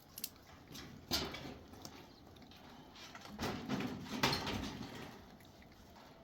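A few sharp knocks, then a longer scraping, rustling stretch with more knocks about three and a half seconds in.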